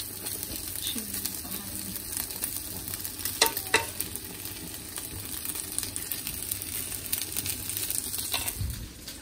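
Vegan chicken pieces sizzling steadily in a frying pan as they are stirred with a wooden spatula. Two sharp knocks come in quick succession about three and a half seconds in.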